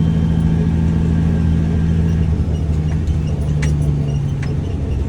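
Dump truck's diesel engine running steadily, heard from inside the cab, its note shifting slightly about halfway through. Two sharp rattles come late on as the truck rides over bumpy ground.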